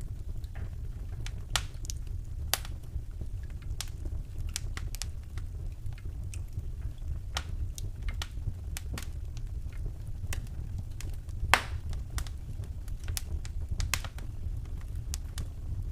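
Wood fire burning in a fireplace, crackling with irregular sharp pops over a steady low rumble of the flames, one pop louder than the rest about three-quarters of the way through.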